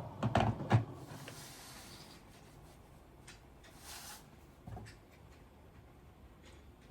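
Kitchenware being handled: two sharp knocks within the first second, then a few lighter clicks, a brief hiss about four seconds in and one more knock shortly after.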